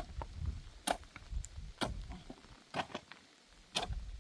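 Five sharp knocks at a steady pace of about one a second, over a low rumble that fades out about halfway through.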